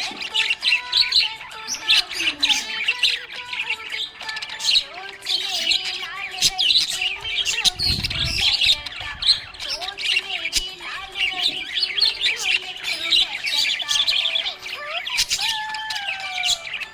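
Small pet parrots chirping and chattering in a dense, continuous stream of rapid high chirps. A brief low thud comes about halfway through.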